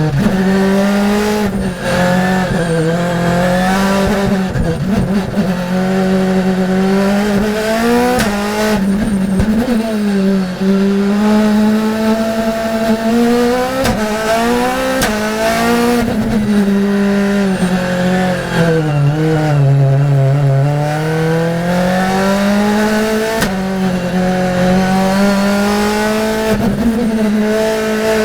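Race car engine at high revs under hard acceleration. Its pitch climbs through each gear and drops sharply at the shifts, sinking lower for a longer moment about two-thirds of the way through before building again.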